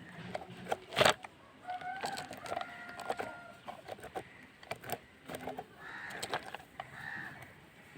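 A rooster crowing once, a drawn-out call lasting about two seconds, among scattered sharp clicks and knocks; the loudest knock comes about a second in.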